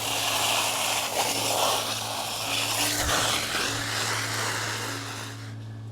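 Water spraying from a garden hose fed by a battery-powered submersible pump, a steady hiss that stops near the end, over a low steady hum.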